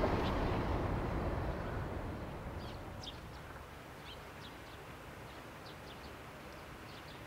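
A passing train fading away over the first three seconds or so, leaving a quiet outdoor background with short, high bird chirps.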